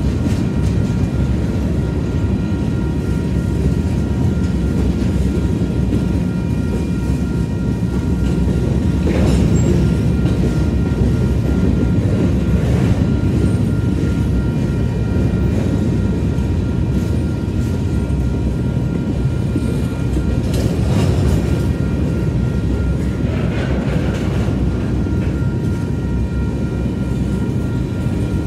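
Freight train of covered hopper cars rolling past close by: a steady, loud rumble of steel wheels on rail, with a few brief louder rattles and faint steady high tones above it.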